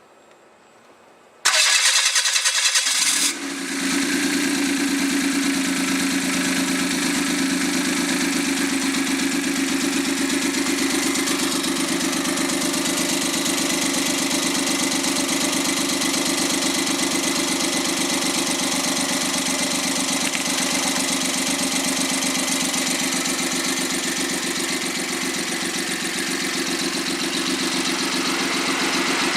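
Suzuki K6A 660 cc three-cylinder engine, run bare without its turbocharger, is cranked by the starter for about two seconds, catches, and settles into a steady idle.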